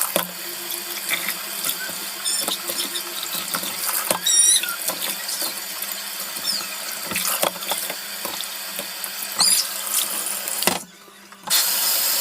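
Cold water running from a kitchen tap into the sink while raw fish pieces are washed by hand, with scattered knocks and a few short squeaks as the pieces are handled. The water cuts out briefly near the end.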